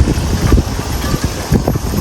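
Gusty wind buffeting the microphone: a low rumbling with irregular dull thumps.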